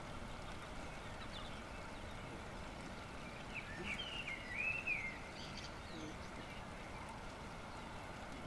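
A songbird calling: a short phrase of bending chirps about three and a half to five seconds in, over steady faint outdoor background noise.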